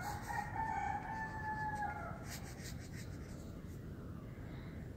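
A single long bird call, faint, held for about two seconds and dropping in pitch at the end.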